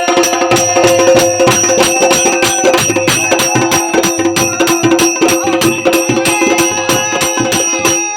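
Folk music with a fast, steady beat of drums and jingling metal percussion over held instrumental tones.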